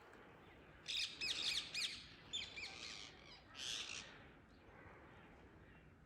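Indian ringneck parakeets giving shrill, screeching calls: a quick run of calls about a second in, a few more shortly after, and another burst near four seconds.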